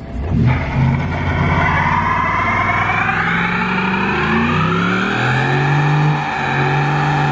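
Ford F-150 pickup doing a burnout: the engine revs up over the first few seconds and is held high while the spinning rear tire squeals, then the revs drop off near the end.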